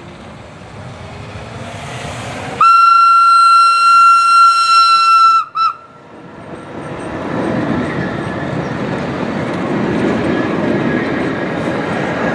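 Bayerische Zugspitzbahn electric railcar pulling away, its motor whine rising in pitch. A few seconds in it sounds its horn: one long high steady note of nearly three seconds, then a short blip. Then the wheels rumble on the rails as the train passes close by.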